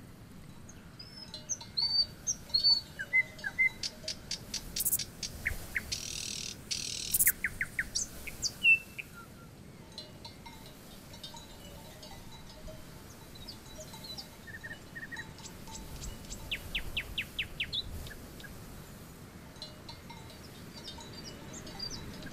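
Small wild birds chirping and trilling: scattered short high chirps and quick trills of rapid repeated notes, busiest in the first nine seconds and again around sixteen to eighteen seconds in. A brief high hiss sounds about six to seven seconds in.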